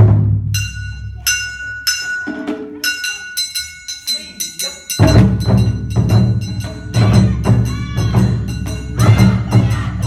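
Live Awa odori band music. A loud drum hit opens, followed by a few held melody notes; about halfway in, the full percussion section of drums and clappers comes in with a fast, steady beat.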